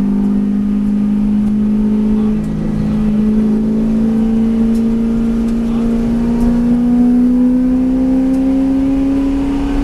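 V8 race car engine pulling hard under acceleration. Its pitch drops once at an upshift about two and a half seconds in, then the revs climb slowly and steadily.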